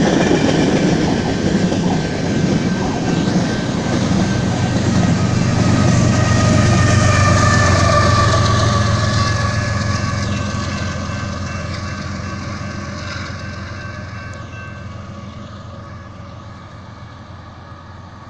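BNSF freight train of covered hopper cars rolling past, wheels clattering on the rails, then a diesel locomotive's steady low drone goes by with some held high tones, and the whole sound fades steadily as the train moves away.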